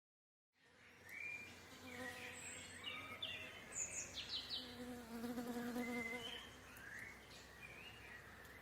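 Faint outdoor ambience of birds chirping, with an insect buzzing close by that swells about five seconds in and then fades.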